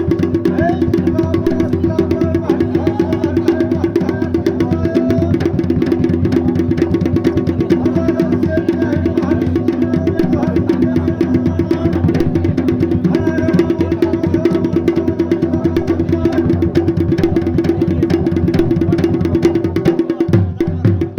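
Dhol-damau drumming for a Pandav Nritya dance: fast, dense, unbroken drum strokes in a steady rhythm, briefly thinning near the end.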